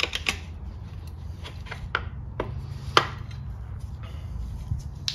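Scattered metal clicks and knocks as the oil pump is wiggled loose from a Holden grey motor's block, the loudest knock about three seconds in.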